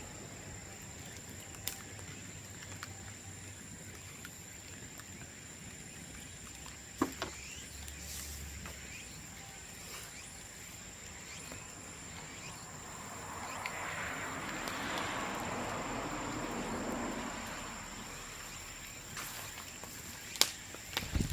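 Bamboo bonfire burning, with occasional sharp pops and crackles and a cluster of them near the end, over a steady thin high insect trill. Partway through, a broad rushing swell rises and fades over a few seconds.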